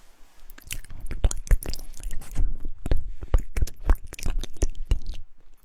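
Close-miked ASMR mouth sounds: a quick, irregular run of wet lip and tongue clicks and smacks, dense through most of the stretch.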